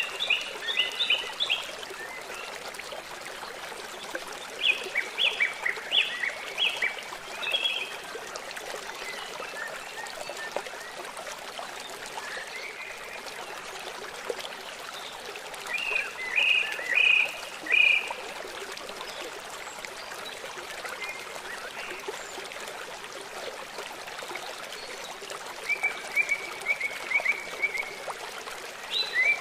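Songbirds singing short phrases of quick, repeated high notes, about four bouts, over the steady rushing of a forest stream.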